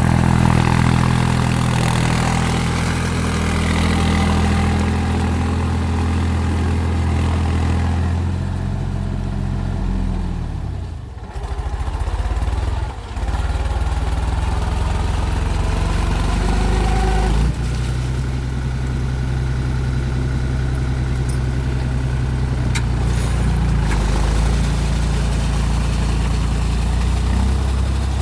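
Mahindra 275 TU tractor's three-cylinder diesel engine running steadily. About ten seconds in the engine note sags lower and briefly dips, then it settles back to a steady run.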